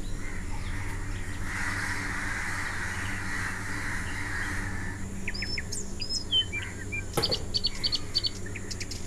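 Small birds chirping outdoors: short gliding calls and quick runs of high tweets in the second half. Under them is a low steady hum, with a soft hiss in the first half.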